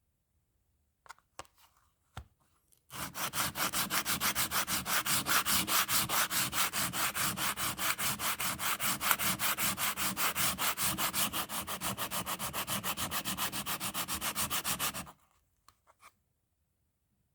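Bicycle brake pad being sanded on sandpaper to clean its surface: rapid, even back-and-forth rubbing strokes that start about three seconds in and stop abruptly near the end. A few light handling clicks come before and after.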